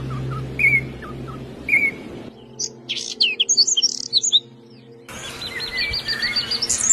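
Small birds chirping in three spliced segments: first a short repeated chirp about once a second, then a flurry of quick high chirps, then a fast trill of many notes near the end.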